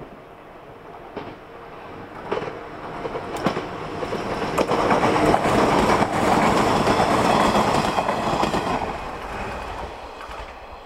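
JNR-era 115 series electric train passing by, its wheels clicking over the rail joints. It grows to its loudest about halfway through, then fades.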